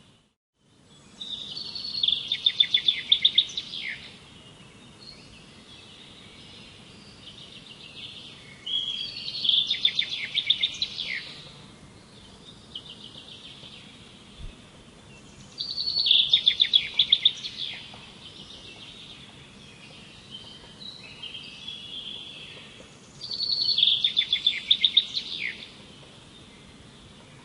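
A songbird singing: four loud, rapid trilled phrases of two to three seconds each, about seven seconds apart, with softer, quieter phrases in between.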